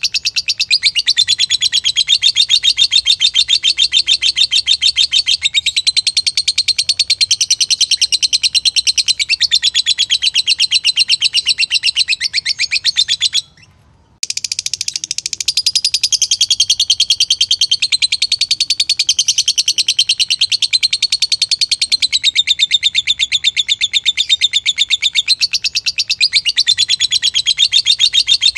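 Lovebird singing a long, unbroken run of rapidly repeated high chattering notes, with a brief pause about halfway through before it picks up again.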